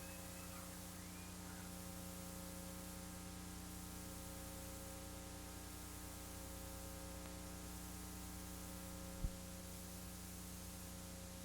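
Steady electrical mains hum with hiss on the recording, and a single sharp click about nine seconds in.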